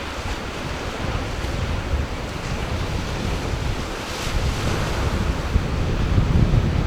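Ocean surf washing in, with a wave breaking about four seconds in, and wind buffeting the microphone in low, gusty rumbles that grow stronger toward the end.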